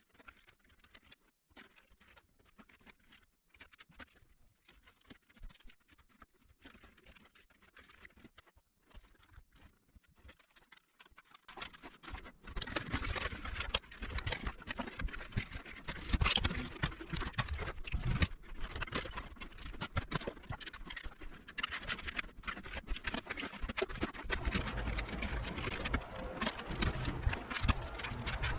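HO-scale track-cleaning cars rolling around the track, a rattle and low rumble with many small clicks that starts about twelve seconds in, after faint scattered clicking.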